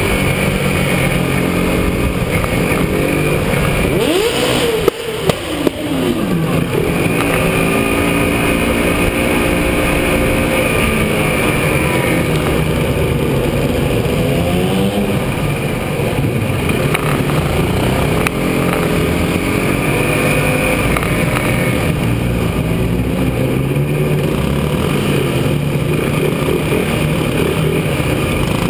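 Several 125 cc racing motorcycles running and revving, their engine pitches rising and falling through the gears. About five seconds in, one passes close and its pitch drops sharply.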